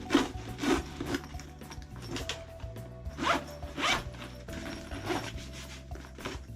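Zipper on a Castelli Race Rain Bag worked in several short pulls, each a quick rasping zip, over soft background music.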